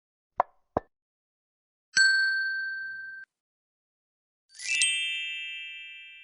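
Two quick clicks, then a short bright ding that cuts off abruptly, then a second, richer bell chime that rings and slowly fades. These are the click-and-ding sound effects of a YouTube subscribe-button and notification-bell animation.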